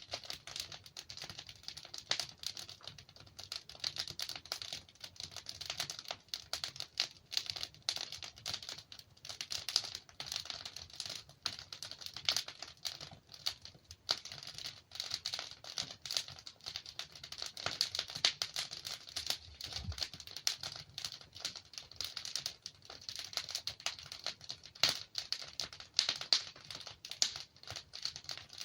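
Wood fire burning in a fireplace: a steady stream of fine crackling with sharper pops scattered throughout.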